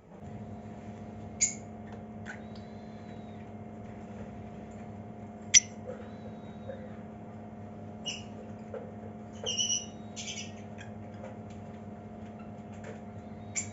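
Lovebirds giving a few short, sharp, high-pitched chirps and squeaks, scattered, the loudest about halfway through and several close together about two-thirds of the way in, over a steady low electrical hum.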